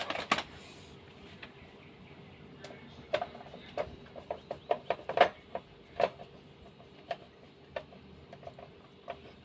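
Irregular light clicks and taps of screws and plastic parts being handled and fitted while mounting a refrigerator's defrost timer, thickest in the middle, over a faint steady hum.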